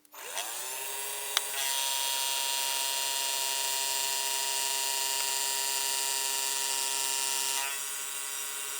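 Milling machine spindle starting up with a rising whine, then running steadily. About a second and a half in it grows louder as the cutter faces the part, and it eases back near the end as the cut finishes.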